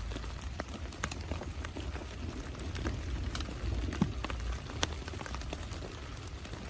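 Rain falling, with many separate drops striking close by at uneven intervals over a steady low rumble; one drop hits harder about four seconds in.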